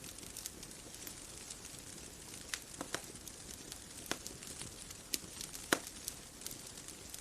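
Wood bonfire crackling: irregular sharp pops and snaps over a soft, steady hiss, with one louder pop a little before six seconds in.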